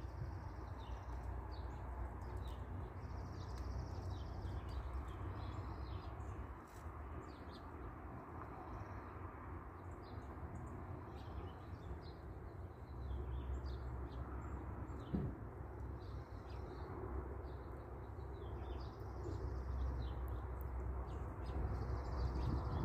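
Small birds chirping in short repeated calls over a steady low background rumble, with a single thump about two-thirds of the way through.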